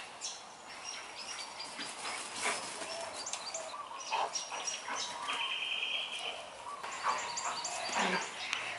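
Birds chirping and calling, with many short high notes. About five seconds in, a rapid trill of evenly repeated notes lasts about a second.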